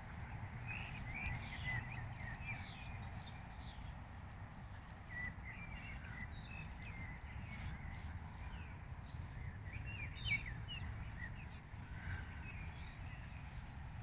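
Several songbirds chirping and singing, short high calls scattered throughout, over a steady low background rumble.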